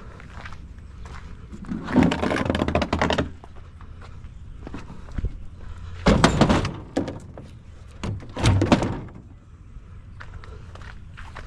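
Heavy thunks and scraping from bulky scrap being loaded and shoved into place, in three loud bouts of a second or so each, over a low steady background hum.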